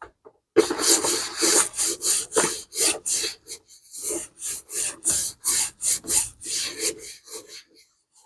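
Brisk back-and-forth scrubbing on the outside of a vintage leather bag during cleaning, a quick run of rasping strokes at about three a second that stops shortly before the end.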